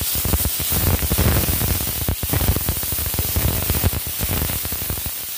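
Ginger-garlic-green chilli paste and cumin seeds sizzling and crackling in hot oil in a nonstick pan. A spatula stirs the paste and scrapes across the pan.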